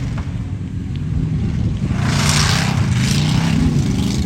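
Truck engine running with a steady drone, joined about halfway through by two short bursts of hiss.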